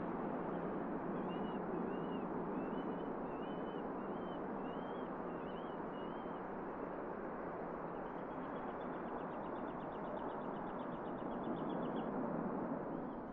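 A small bird singing over a steady background rumble: a run of about eight short rising-and-falling whistled notes, then a fast trill lasting several seconds.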